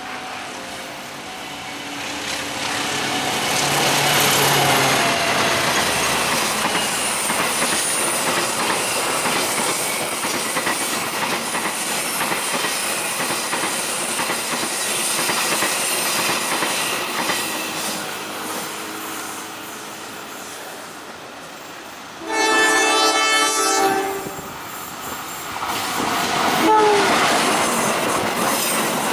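A train passing with a steady rumble and clacking wheels over the rail joints. Near the end a train horn sounds one blast of about two seconds, followed by more wheel noise with brief squeals.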